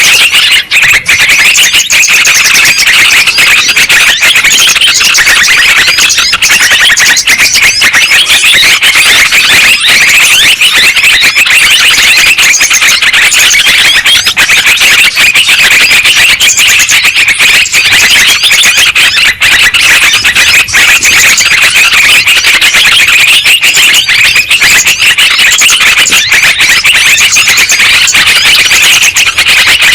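Yellow-vented bulbuls (trucukan) chattering in a loud, unbroken stream of rapid, bubbly chirps. It is a bird-lure recording, played to call in bulbuls or get a quiet one singing.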